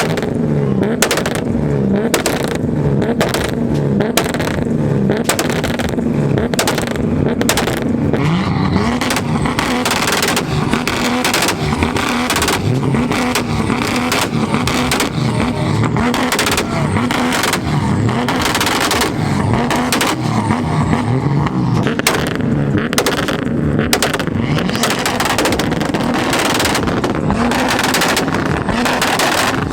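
Modified car engines held against two-step launch limiters, with rapid, repeated exhaust bangs and pops over revving engine notes. The noise is very loud.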